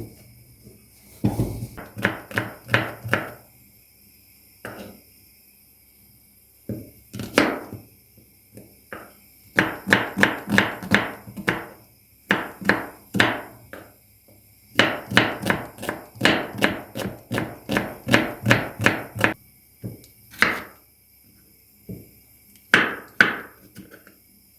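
Knife chopping on a cutting board in quick runs of strokes, about three a second, with short pauses between runs.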